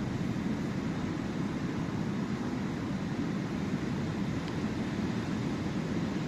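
Sea waves washing on the shore, a steady rushing noise.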